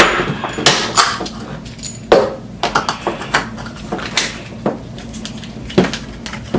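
Irregular clicks, knocks and rustles from handling a set of roller skate wheels and their packaging.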